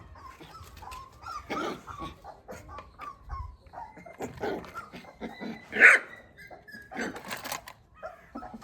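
A puppy barking in short, high yaps, the loudest about six seconds in.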